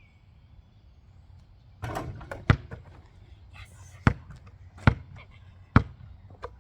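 A basketball bouncing on hard ground: four sharp bounces in the second half, with a shorter clatter just before the first.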